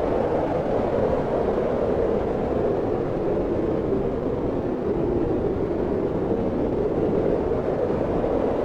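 Steady wind blowing, a dense low rushing that swells and eases slightly partway through.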